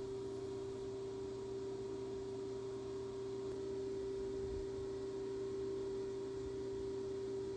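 A steady electrical hum: one unchanging mid-pitched tone with fainter lower tones beneath it.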